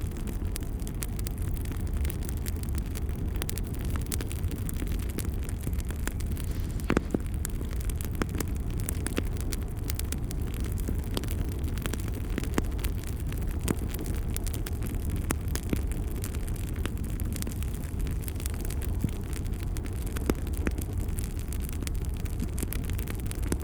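Wood fire burning in a fireplace: a steady low rumble of flames with frequent small crackles and pops, one sharper pop about seven seconds in.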